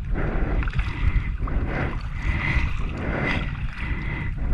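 Water swishing around a kayak being paddled, swelling and dipping in a regular rhythm of strokes, with wind rumbling on the microphone.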